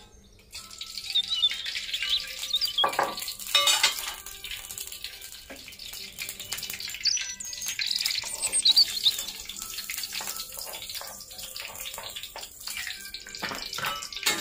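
Oil sizzling in a hot wok, starting about half a second in, with sliced shallots, garlic and chilli frying in it for a stir-fry, and small clicks of the spatula and cutting board against the pan.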